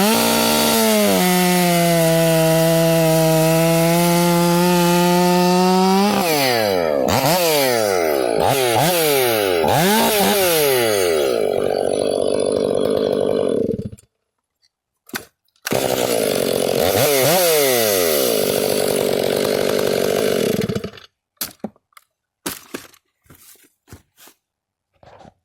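Stihl MS 500i fuel-injected two-stroke chainsaw with a bark box muffler revving. It is held at high, steady revs for about five seconds, then blipped up and down repeatedly, and shuts off about 14 seconds in. It runs and is revved again for about five seconds before cutting off, followed by a few light knocks.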